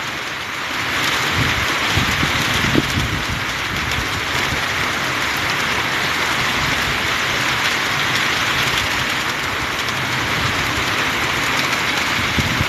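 Heavy rain pouring steadily, with strong wind gusting and buffeting the microphone in low rumbles.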